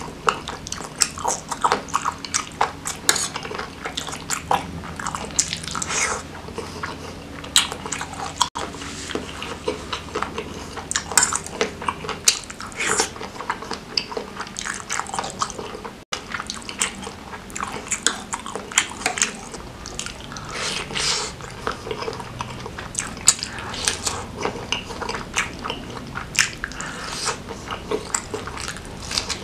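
Close-miked wet chewing of bakso meatball and beef trimmings in chili broth, a dense run of short sharp mouth clicks and squelches.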